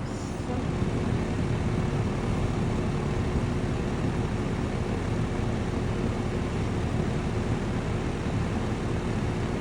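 Strong wind gusts blowing against the microphone: a steady, low rushing noise that grows louder about a second in.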